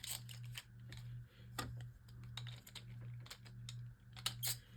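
Irregular small plastic clicks and taps as Beyblade tops and a launcher are handled between battles, over a steady low hum.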